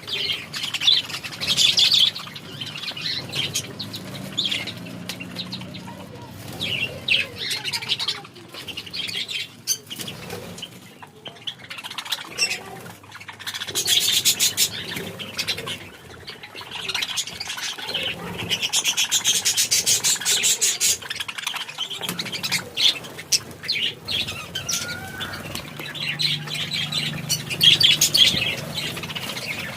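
Several birds chirping and tweeting continuously, with bursts of rapid chattering.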